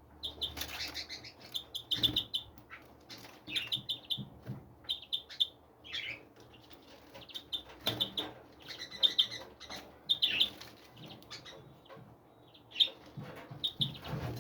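Small wild birds giving short, repeated chirps, with wings flapping now and then.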